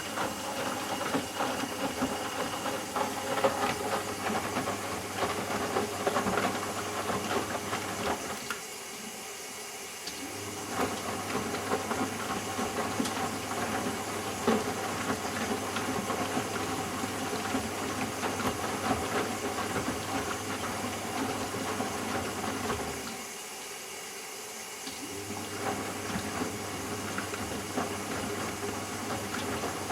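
Eudora Sparmeister 702 washing machine rinsing: the motor hums as it tumbles the drum, with water sloshing through the laundry. The drum stops twice for about two seconds, about nine seconds in and again near the end, as it pauses to reverse direction.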